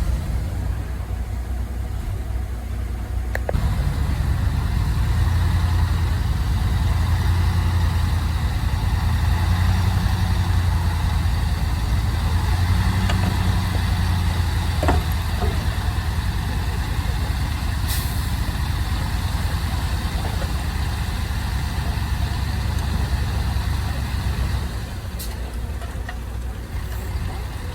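A heavy vehicle's engine running steadily, growing louder a few seconds in and easing off near the end, with a few scattered clicks.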